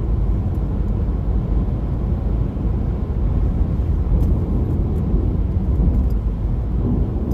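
Jeep driving down the road: a steady low rumble of engine and road noise.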